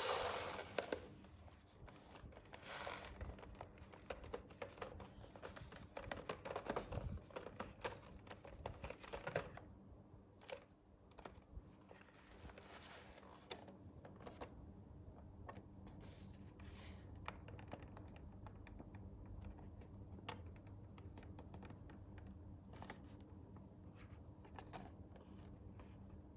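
Hands handling and unboxing toy packaging: a fast run of small clicks, taps and rustles that thins out after about ten seconds into scattered single taps.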